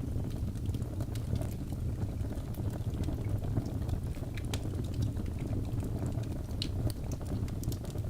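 Log fire burning in a fireplace: a steady low rumble of flames with many small, irregular crackles and pops from the burning wood.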